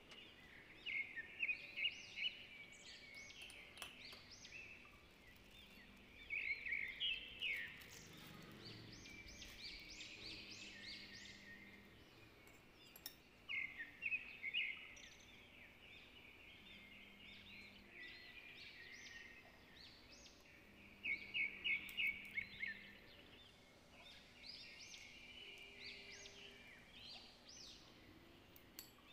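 Birds chirping in repeated bouts of quick, high chirps and short trills, with quieter gaps between the bouts.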